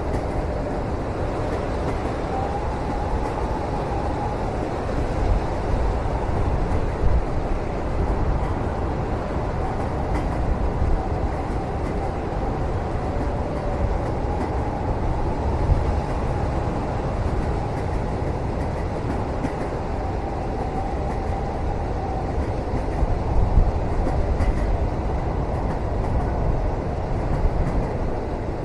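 Steady rumble of a moving train heard from inside a passenger cabin, with faint wavering higher tones and a few soft knocks.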